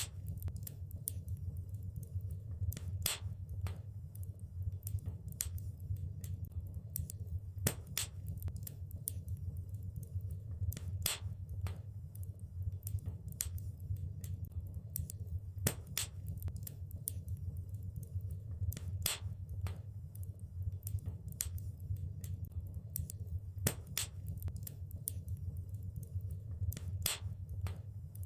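Wood fire in a fireplace crackling, with irregular sharp pops every few seconds over a steady low rumble.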